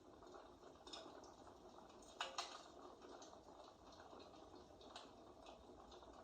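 Faint fireplace crackle: a soft steady hiss with scattered small crackles, and one louder crack about two seconds in.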